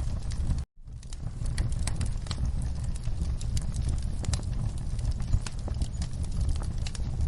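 Fire crackling in a fireplace: scattered sharp pops and snaps over a steady low rumble of flames. The sound cuts out for an instant just under a second in, then returns.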